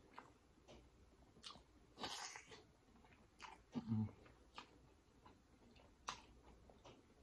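Close-miked chewing of buttery lobster tail meat: soft wet mouth clicks and smacks, with a louder wet squish about two seconds in and a brief low hum near four seconds.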